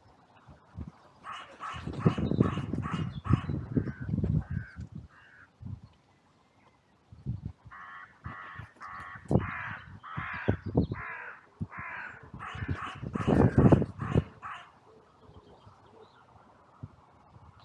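Crows cawing in two runs of harsh caws, about eight in the first and about a dozen in the second after a short pause. Loud low rumbling close to the microphone accompanies the loudest caws.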